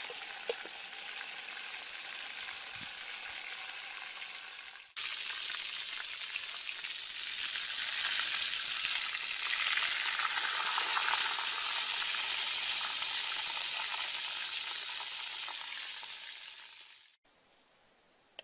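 A whole chicken frying in hot oil in a wide pot over a wood fire: a steady sizzle, softer at first under a pot lid, then louder after about five seconds. It stops abruptly near the end.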